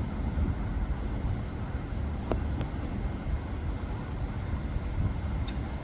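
Steady low rumble of railway station background noise, with a few faint clicks.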